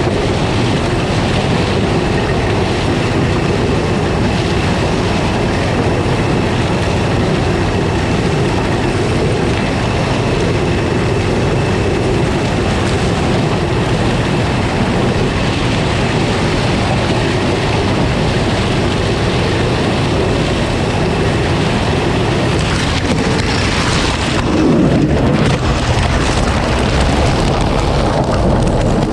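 Combine harvester running, a loud, steady mechanical noise with no breaks. It changes character about 25 seconds in.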